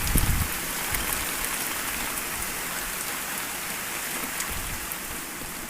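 Steady rain falling, with many individual drops ticking on a hard surface, and a few brief low rumbles right at the start.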